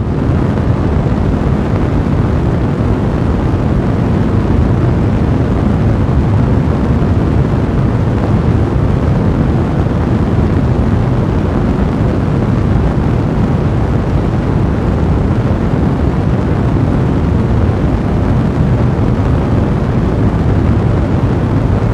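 Fire blazing in a fireplace: a steady, low-pitched rushing noise of the flames, even throughout.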